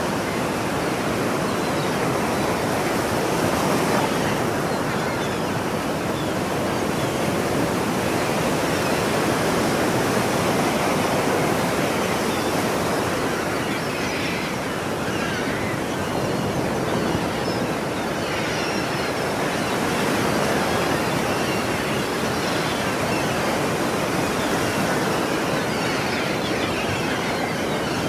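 Ocean surf washing in a steady rush, rising and falling slowly as the waves come in.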